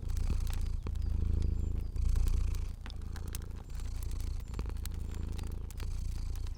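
Domestic cat purring in a low rumble that swells and breaks about once a second with its breathing. Scattered sharp crackles and pops of a fire sound over it.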